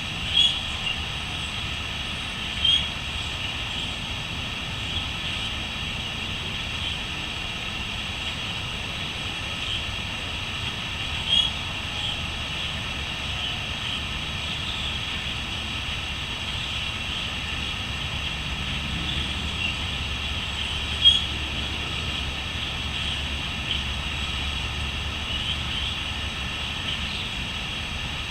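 Outdoor nature ambience: a steady high-pitched trill of crickets, with a few short bird chirps standing out now and then, over a low steady rumble.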